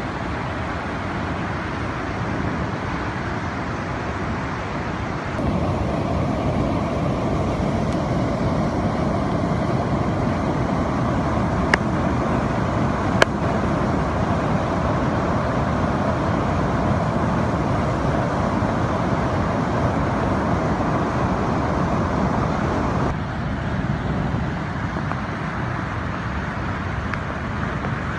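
Steady rushing noise of rain-fed floodwater and rain, jumping abruptly louder about five seconds in and dropping back near the end, with two sharp clicks in the middle.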